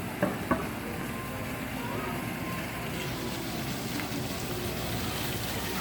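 Steady rushing splash of a water fountain, with two sharp clicks about a quarter and half a second in.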